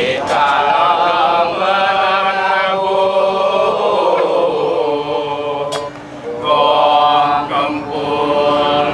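Chanting of a melody in long held notes, sung phrase by phrase with short breaks. The singing dips briefly about six seconds in, just after a single sharp click.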